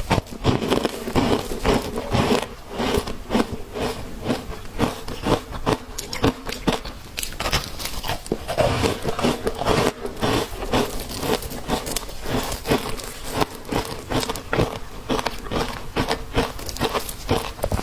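Ice being bitten and chewed close to the microphone: a continuous run of sharp, irregular crunches and crackles, several a second.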